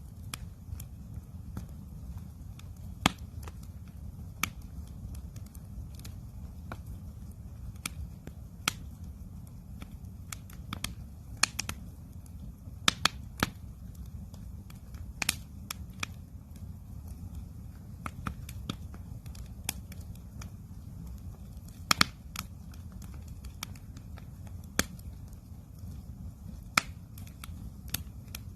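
Wood campfire crackling: irregular sharp pops and snaps, a few of them loud, over a steady low rumble.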